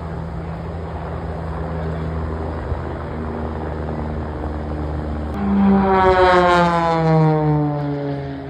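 Display aircraft engine droning steadily, then a close fly-by about five seconds in: the sound swells and its pitch slides down as the aircraft passes.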